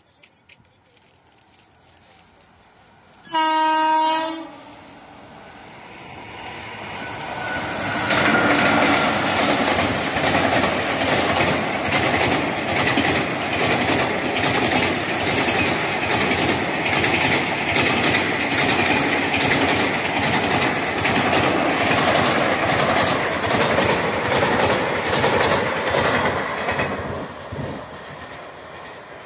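Locomotive horn sounds once, for about a second, a few seconds in. Then a train runs past close by, its wheels clattering over the rail joints, the noise swelling, holding steady for about twenty seconds and dying away near the end.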